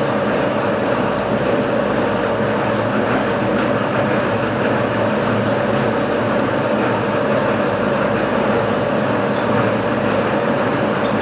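Metalworking machine tool running steadily, a continuous mechanical noise with a constant mid-pitched tone through it.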